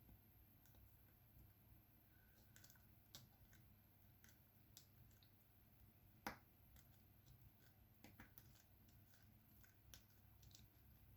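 Faint, irregular clicks and taps of a diamond painting pen picking up resin drills and pressing them onto the canvas, with one louder tap about six seconds in.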